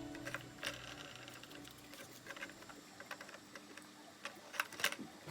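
A few scattered light clicks and taps, the sharpest pair near the end, as background music with a low beat fades out in the first second.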